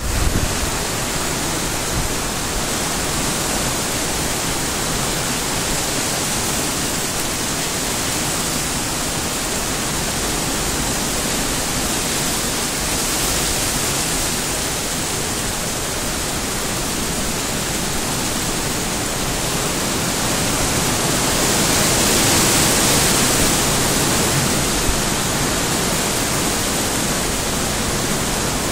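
Heavy rain pouring steadily, an even hiss that swells louder for a few seconds about two-thirds of the way through.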